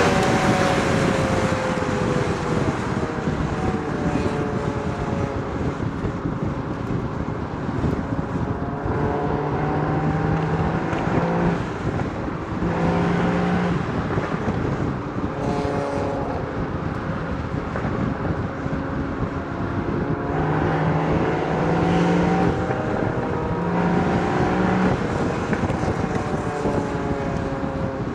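Porsche Boxster Spyder 981's naturally aspirated flat-six exhaust while driving, the revs falling at the start and then rising and falling several times, with wind and road noise throughout.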